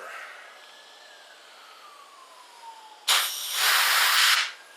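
A short blast and then a longer one of pressurised air hissing through a cleaned Cummins diesel injector, testing whether its nozzle holes are clear. A distant siren wails faintly before it.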